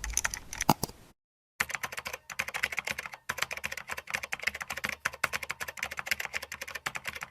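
Rapid typing on a computer keyboard: a dense run of key clicks that stops dead about a second in and resumes half a second later.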